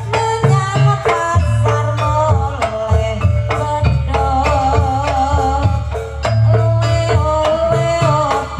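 Live Javanese jaranan (kuda lumping) accompaniment music: hand drums beat a steady rhythm with deep strokes, while pitched gamelan-type percussion plays stepped notes under a wavering melodic line.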